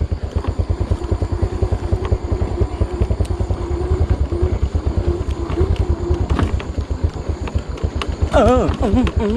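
Small motorcycle engine running at low revs, its firing pulses coming evenly and quickly, with a wavering whine riding over it through the middle. A voice rises over the engine near the end.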